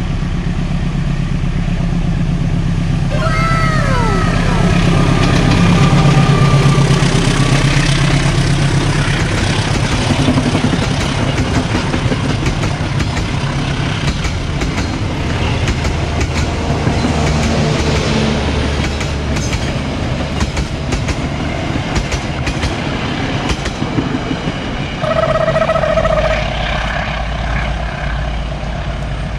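Dharmawangsa diesel-hauled passenger train passing close by: a steady low engine sound, then the carriages' wheels clicking over the rail joints. A train horn sounds once for about a second near the end.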